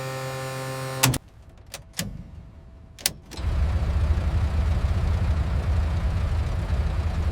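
A steady hum cuts off abruptly about a second in, followed by a few sharp clicks. About three and a half seconds in, a loud, low, rough rumble of a large aircraft engine starts up and keeps running.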